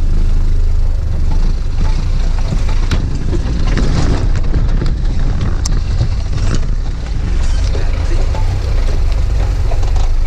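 Off-road vehicle engine running, with scattered knocks and rattles through it.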